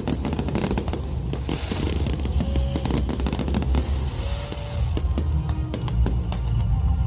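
Fireworks display: a rapid run of sharp pops and cracks from bursting shells, with a dense crackle between about one and a half and five seconds in. Loud pop music with a heavy bass plays throughout.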